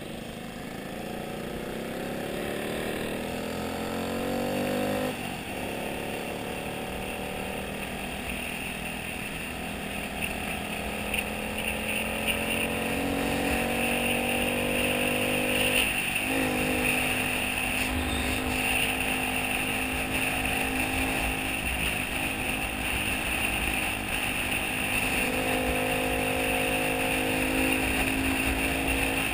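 Motorcycle engine pulling away and accelerating, its pitch climbing, dropping sharply about five seconds in and again about sixteen seconds in as it shifts up, then holding steady at cruising speed, with steady road and wind rush.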